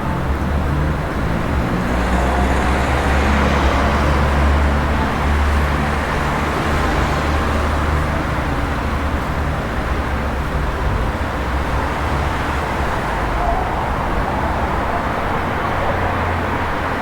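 Street traffic: a steady low engine hum of motor vehicles, swelling for a few seconds near the start as a vehicle passes close by.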